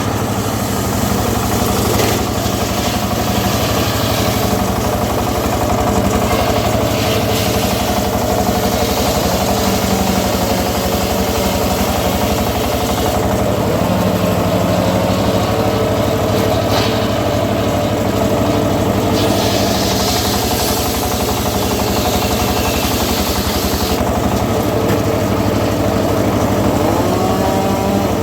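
Engine of a homemade circular-saw sawmill running steadily.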